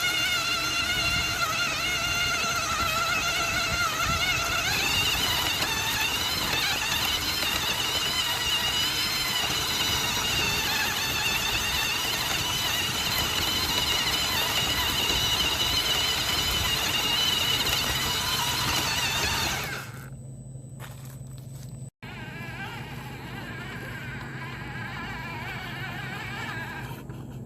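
Small electric motors of a Huina RC excavator whining as it works, the pitch wavering and shifting. The whine stops about twenty seconds in, leaving a quieter low steady hum.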